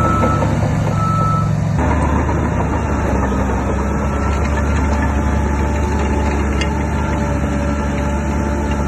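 Diesel engine of heavy earthmoving machinery running steadily, with a reversing alarm beeping in the first two seconds. The sound changes abruptly just under two seconds in, then the engine drone carries on.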